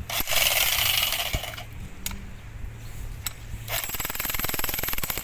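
Jackhammer hammering at a root in two bursts: one about a quarter-second in that lasts over a second, and another fast run of rapid blows starting near the end. A steady low hum runs between them.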